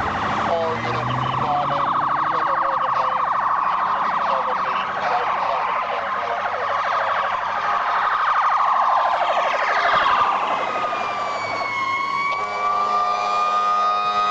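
Emergency vehicle sirens from a responding ambulance and fire engine: a fast warbling siren for most of the time, dropping in pitch about ten seconds in and changing to a slower, steadier rising wail near the end.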